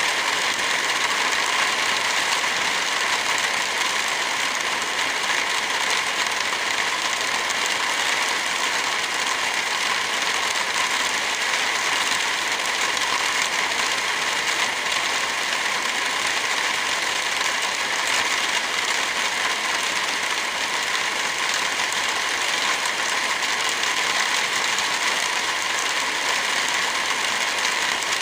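Steady rain with a fire crackling, an even hiss that does not change in level.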